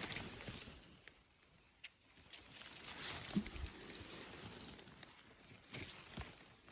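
Irregular rustling and brushing through forest undergrowth, with a few sharp clicks and snaps scattered through it, the loudest about three and a half seconds in.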